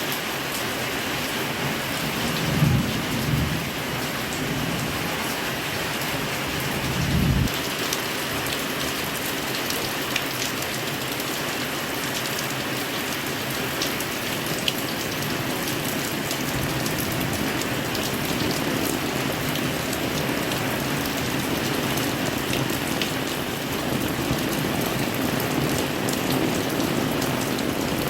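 Heavy rain pouring down in a steady, even hiss. Two brief low rumbles come through a few seconds in.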